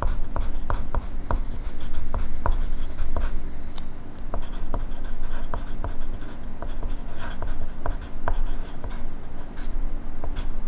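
Pencil writing on paper: a run of short, scratchy strokes and light taps at an uneven pace, over a faint steady low hum.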